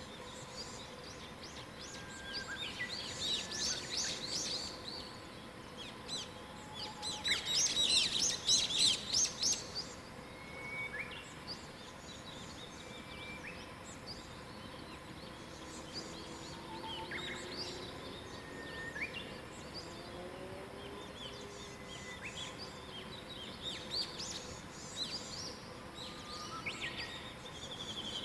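Wild birds singing in a morning chorus: two loud bursts of rapid, high twittering song, the second the loudest, with short whistled notes from other birds in between and a few faint low sliding calls near the middle.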